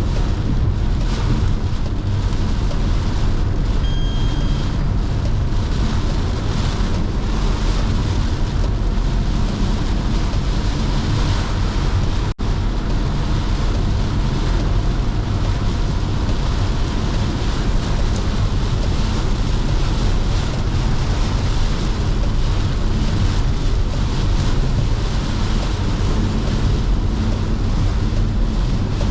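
A car driving on a wet road in heavy rain: a steady rush of tyre spray and rain noise over a low rumble. The sound drops out for an instant about twelve seconds in.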